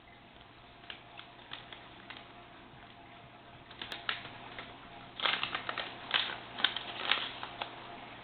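Light, irregular clicks and taps, a few at a time at first, then a quicker, louder cluster from about five seconds in to near the end, over a faint steady hum.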